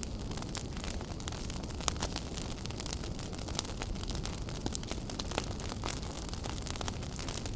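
Wood fire burning in a fireplace: a steady low roar with frequent sharp crackles and pops scattered irregularly, a few louder snaps among them.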